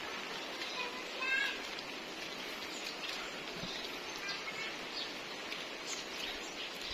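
Steady heavy rain falling. About a second in, a short pitched animal call rises above it, and a few faint chirps follow later.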